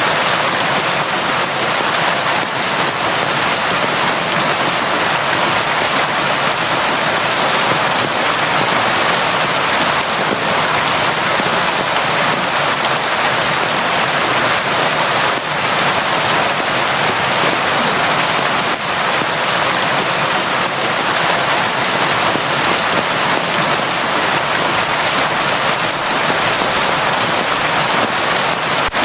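Steady, constant rain falling, a dense even hiss with faint scattered drop ticks.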